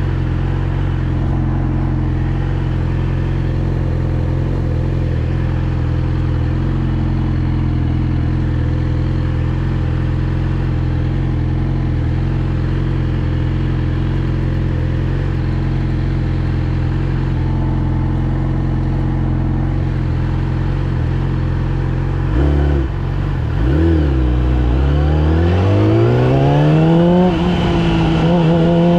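Yamaha R6's 600 cc inline-four engine holding a steady low-rev note for about twenty seconds. Near the end the revs dip, then climb as the bike pulls away, with a shift about two seconds later and the revs rising again.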